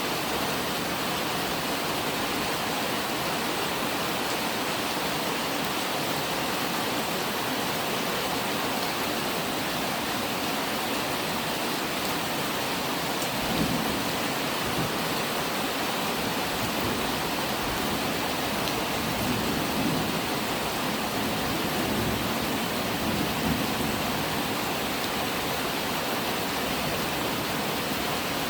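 Steady, dense rainfall, a constant even hiss, with a few short low rumbles about halfway through and again later on.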